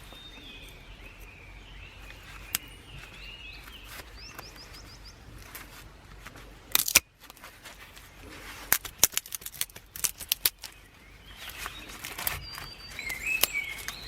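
Small birds singing in warbling phrases at the start and again near the end. In between come sharp clicks and knocks, loudest about halfway through and followed by a quick run of them, from something being handled close by.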